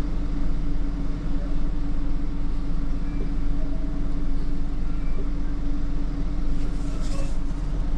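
Flatbed tow truck's engine running steadily at low speed during a slow turn, a constant low hum with one steady tone.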